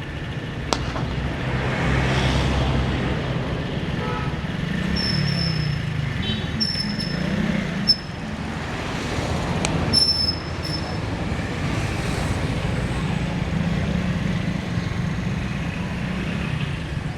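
Steady low rumble of road traffic with engines running, broken by a few sharp knocks about a second in, about eight seconds in and about ten seconds in, and some brief high chirps in the middle.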